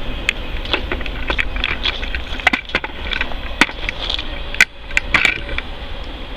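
Intermodal freight train rolling past: a steady rumble with irregular sharp clicks and clanks from the wheels and cars.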